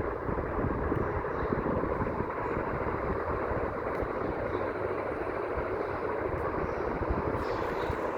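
A 56-inch BRB ceiling fan running, a steady rush of air with an uneven low rumble.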